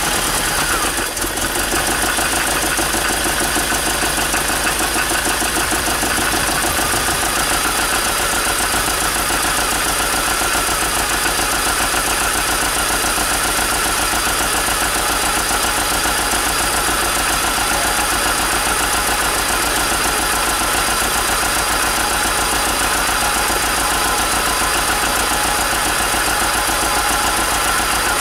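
A 1978 Triumph TR7's four-cylinder engine, just fired on a jump starter, running at a steady idle. It settles within the first second or two and then holds an even, unchanging note.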